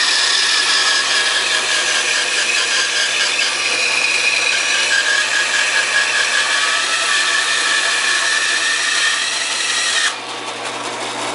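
Homemade 16-inch wooden bandsaw running and ripping a 2x4 lengthwise, a steady high whining cut. About ten seconds in the cutting noise stops suddenly, leaving the saw running more quietly.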